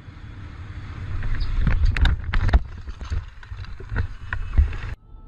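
Vehicle's cabin and road noise, a low rumble with wind, broken by a cluster of sharp knocks about two seconds in and a couple more around four seconds. It cuts off abruptly near the end.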